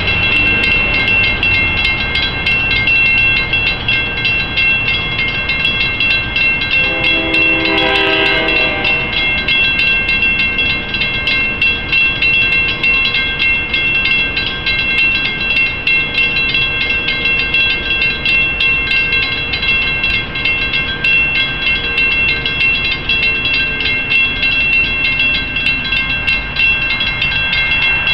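A railroad crossing bell rings steadily with rapid, even strikes while a train rolls through with a constant low rumble. About seven seconds in, the locomotive's horn sounds one chord-like blast lasting about two seconds.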